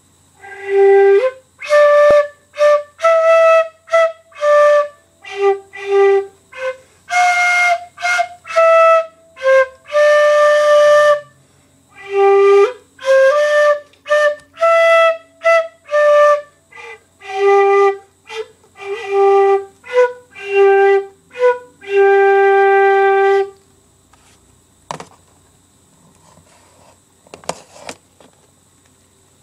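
Flute playing a slow waltz melody as a solo, note by note, for about twenty-three seconds. It stops, and a few faint clicks follow.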